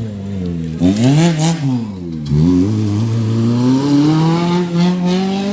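Off-road race car engine revving hard: its pitch drops and rises twice, then climbs steadily as the car accelerates.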